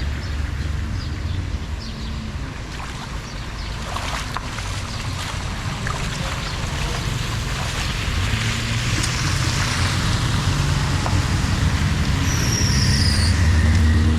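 Floodwater rushing through a cleared street drain, with a low engine hum building louder toward the end.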